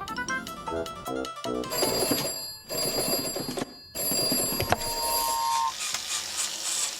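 Animated-cartoon soundtrack: comic music with sound effects, and from about two seconds in a shrill ringing carries on, cut by two brief silences.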